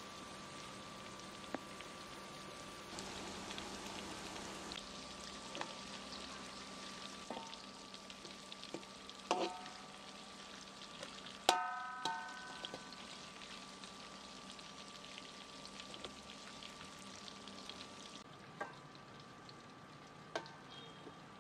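Tofu cubes frying in oil in a metal wok: a steady sizzle with small crackles. A metal spatula and skimmer scrape the wok, with two sharp ringing clangs about nine and twelve seconds in.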